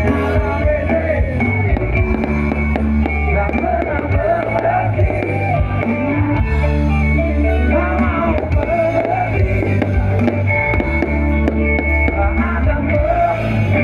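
Live rock band playing loudly: drum kit, bass and electric guitar, with a melody line bending in pitch over the top.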